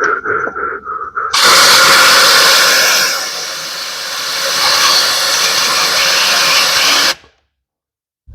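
Compressed-air blow gun blasting into a spark plug hole to clear out fuel left by a leaking direct injector: a loud steady hiss that stops suddenly near the end. A few short pulses come just before it.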